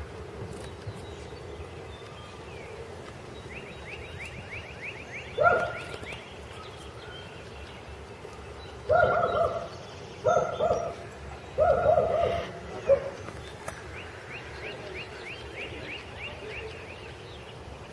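Four loud pitched animal calls, one about five seconds in and three close together a few seconds later, with a faint fast ticking trill before and after them over a steady background.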